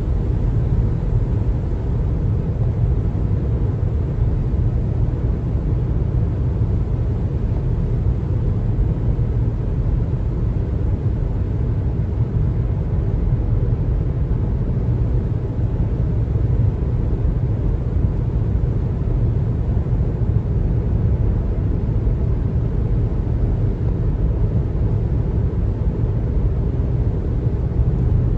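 Steady road and tyre noise of a car driving on a highway: an even, low rumble that holds constant.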